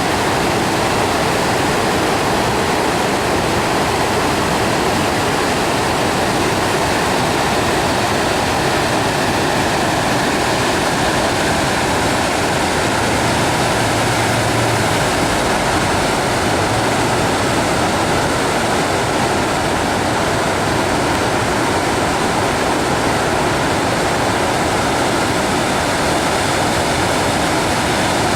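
Kinu River swollen by a typhoon, floodwater rushing loudly and steadily through the Miyaoka headworks weir. A faint low hum joins briefly about halfway through.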